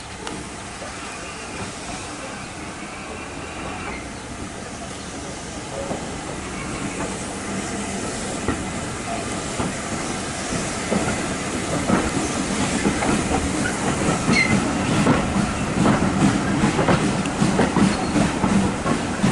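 Train running on the rails, wheels clattering over the rail joints, growing steadily louder with a quickening, irregular clatter in the second half.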